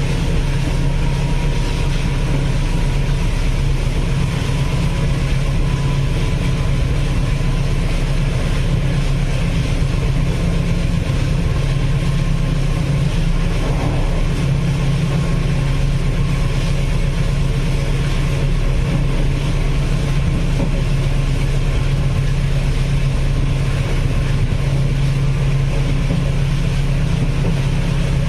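Passenger train running along the line: a steady, loud low drone of the train in motion, unchanging throughout.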